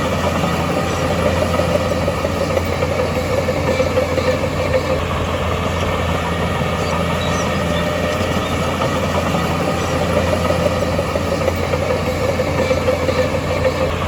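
Heavy diesel engine of earthmoving machinery running steadily, with a rumble that swells and eases slightly over several seconds.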